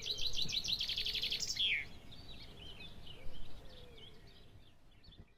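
Birdsong: a fast trill of rapid high chirps that ends about one and a half seconds in with a falling note, then fainter scattered bird calls over a light outdoor hiss, fading out near the end.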